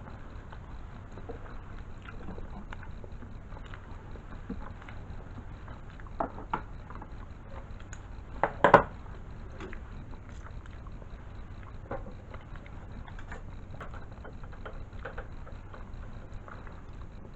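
Scattered light clicks and taps of small parts and tools being handled, with a sharper clatter of knocks about halfway through, over a low steady hum.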